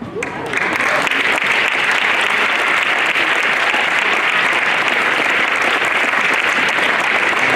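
Audience applauding, a steady, loud clapping that starts about half a second in.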